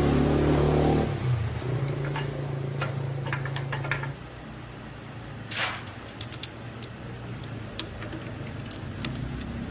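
Small motorcycle engine running, louder at the start and dropping back about a second in and again around four seconds in to a quieter idle, with scattered light clicks over it and one sharper click past the middle.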